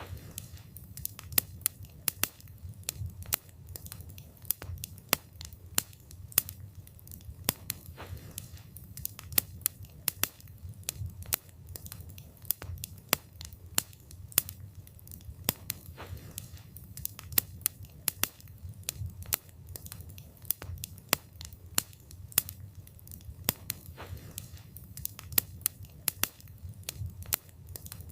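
Wood fire burning, with a steady low rumble of flames and frequent sharp, irregular crackles and pops from the burning wood.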